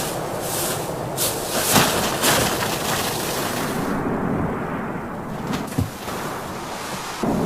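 Strong wind blowing in gusts, with a series of short whooshing surges in the first few seconds; the hiss eases about four seconds in, leaving a lower rumble, and picks up again near the end.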